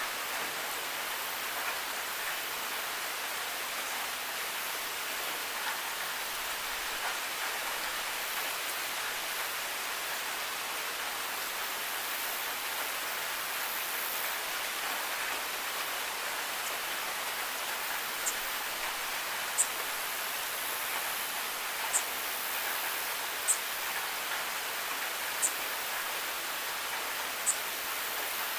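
Steady rain falling, an even hiss with no let-up. Over the last ten seconds or so, sharp single ticks come every couple of seconds over the hiss.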